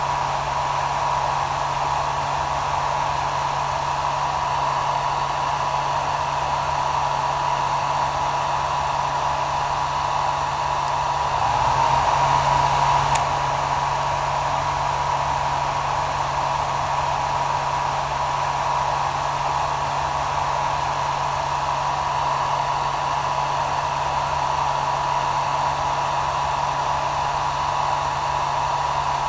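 Hair dryer running continuously: a steady rushing blow with a constant whine near the top of its motor pitch and a low hum underneath. It swells slightly for a moment about twelve seconds in.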